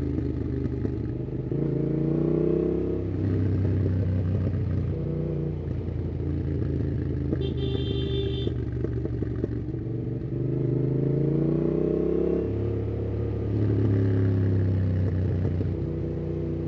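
Yamaha MT-07's parallel-twin engine, breathing through a MIIV aftermarket exhaust with its dB killer fitted, pulling under acceleration. Its pitch climbs and then drops sharply at upshifts about three seconds in and again near twelve and a half seconds, before climbing again. A brief high beep comes about eight seconds in.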